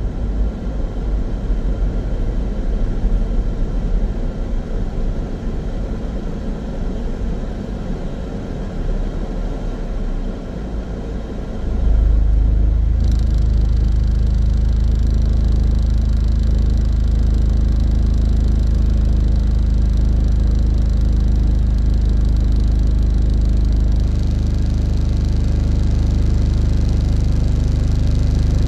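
Inside a small car's cabin: uneven low road-and-tyre rumble, then about twelve seconds in it changes suddenly to a louder, steady low engine drone with a constant pitch, as of the engine idling with the car stopped.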